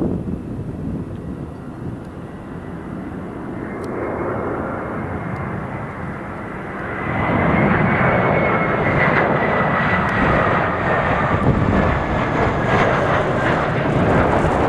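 Airbus A320's CFM56-5B turbofan engines spooling up: a whine rises in pitch and grows. About seven seconds in, it swells into a loud, steady engine roar, the sound of takeoff thrust being set.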